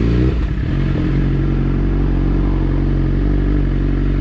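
Motorcycle engine running at steady revs, a loud, even note that holds its pitch throughout, with a brief clatter about a third of a second in.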